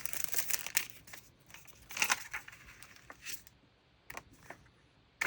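Sheets of decorative patterned paper rustling and crinkling as they are handled, with a burst of crackly rustles about two seconds in. The sound then drops to a few soft clicks.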